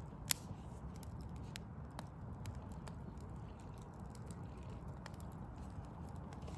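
Backyard wood fire crackling: a sharp pop just after the start, then scattered fainter pops and ticks, over a steady low rumble.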